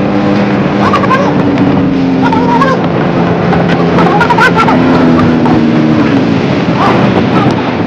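Motorcycle engine running while riding, its pitch lifting briefly twice, under heavy wind and road noise.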